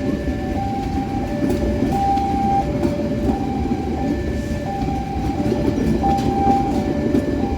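Passenger train rolling along the track with a steady rumble, while a warning alarm sounds two alternating tones, switching back and forth about every two-thirds of a second.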